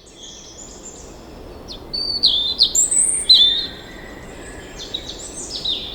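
Birds chirping and calling, a run of sharp high chirps loudest from about two to three and a half seconds in, over a faint steady background hiss.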